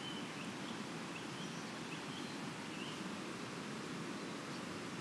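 Steady rushing of a river flowing past, with a few faint short bird chirps over it.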